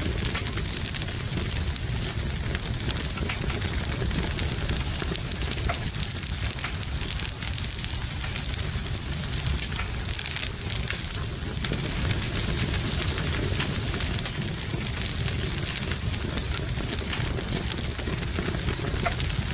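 Wood fire in a fireplace crackling, with many small irregular pops over a steady hiss and low rumble.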